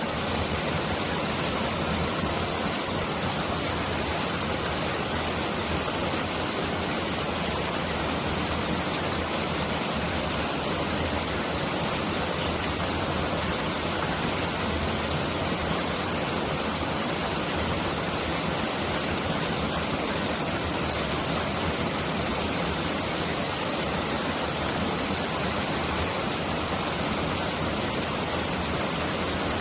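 Mountain valley stream rushing steadily over rocks, a dense, even wash of water noise that sounds like a downpour of heavy rain.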